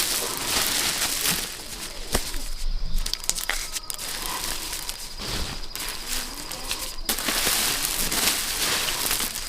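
Rustling and crackling with scattered sharp clicks, like dry material being handled.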